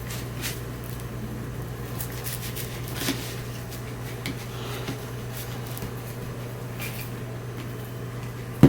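Steady low hum, like a fan or appliance, with faint scattered scrapes and taps of a fillet knife slicing fish meat off the bones, and one sharp knock near the end.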